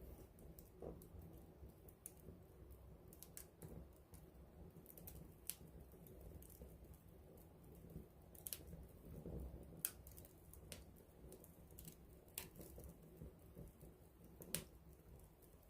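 Wood campfire crackling close up: irregular sharp pops and snaps of burning wood, a few louder ones about ten seconds in and near the end, over a faint low rumble of the flames.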